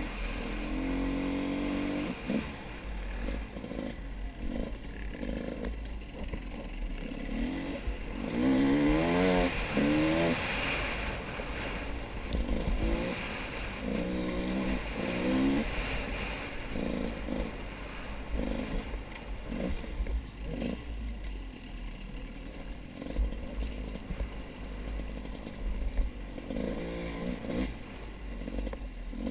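A motor vehicle's engine revving up and down again and again over a low steady rumble, with rattling and scraping.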